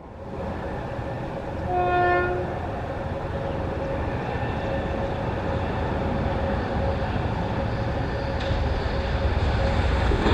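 A train horn sounds one short blast about two seconds in, over the steady rumble of an approaching train that slowly grows louder.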